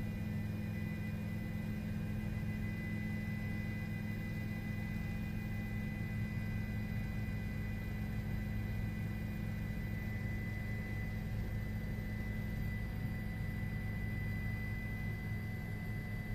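Steady vehicle drone with constant humming tones over a low rumble, unchanging throughout.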